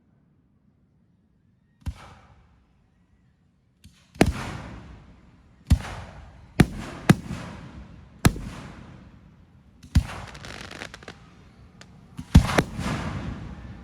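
Fireworks shells bursting in a display, about nine sharp bangs, each dying away in a rumbling, reverberant tail. After one early bang and a quiet pause, the bursts come quicker, every second or so, from about four seconds in.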